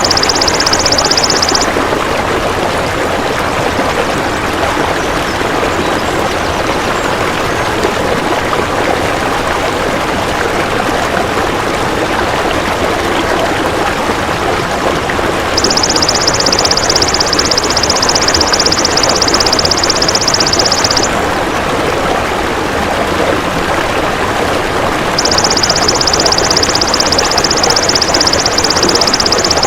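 Golden grasshopper ('belalang emas') calls in three high, rapidly pulsing buzzes of about five seconds each: one ending just after the start, one in the middle and one near the end. Under them runs a steady rushing noise like a stream.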